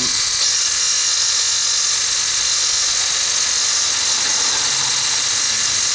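Cheap electric water pump running with a steady rattle, which the owner puts down to a couple of failed bearings.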